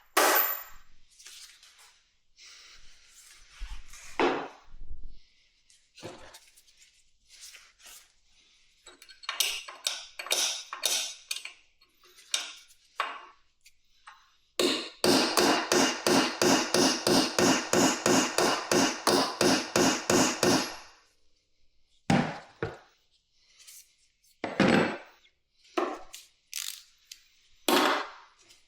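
Hand-tool work on a motorcycle: scattered knocks and scrapes, then about six seconds of quick, even strokes at about four a second, then more single knocks.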